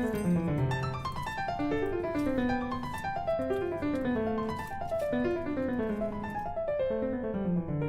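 Background piano music: a melodic keyboard line of notes running down in repeated phrases.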